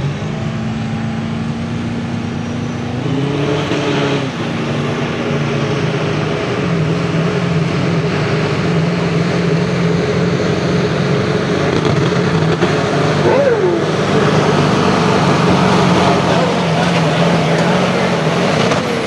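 Diesel 4x4 pickup truck pulling a weight-transfer sled at full throttle. The engine runs hard and steady, rising in pitch a few seconds in, and grows louder as the pull goes on.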